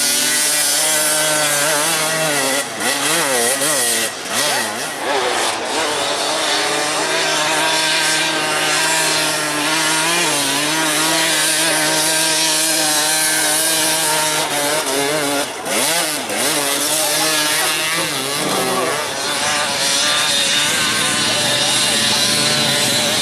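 Several enduro dirt-bike engines running at once, their pitch rising and falling over and over as the throttles are worked.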